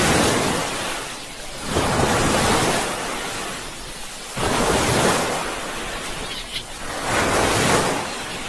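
Sea waves washing in, the surf swelling and fading about every two to three seconds.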